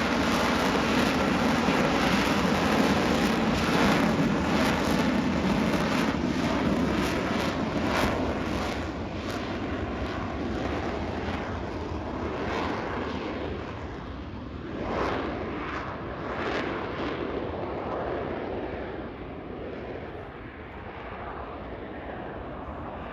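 Jet noise from an F-35 Lightning II's single Pratt & Whitney F135 afterburning turbofan, loud with a ragged crackle for the first several seconds, then fading gradually to a softer rush.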